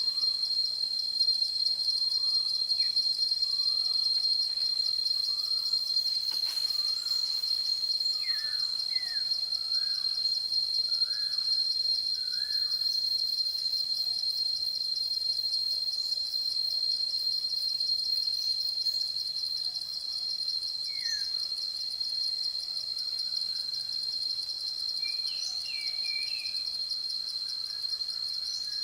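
Forest ambience: insects trilling steadily on one high note, with scattered short bird chirps, in little clusters through the first half and again near the end.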